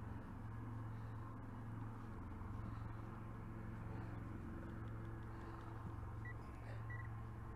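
Steady low hum over faint background noise. Near the end come two short, high beeps from a metal detector sounding on a target in the dug ground.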